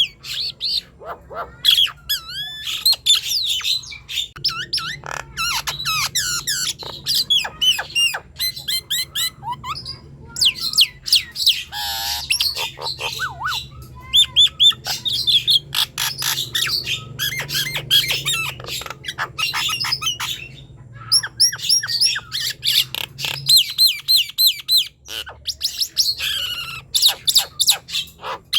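Nias hill myna singing vigorously: a fast, almost unbroken run of loud whistles, squawks, clicks and chattering notes, pausing briefly about twenty seconds in.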